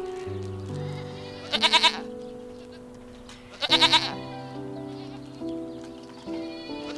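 Goat bleating twice, about two seconds apart, each a short wavering call about half a second long, over soft background music.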